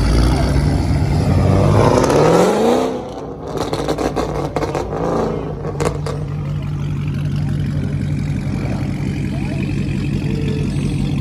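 A car engine revs up hard about two seconds in, drops back, and revs again more briefly about five seconds in, then settles to a steady idle.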